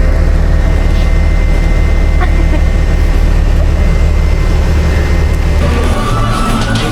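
City bus engine and road rumble heard from inside the cabin, steady and low, cutting off near the end.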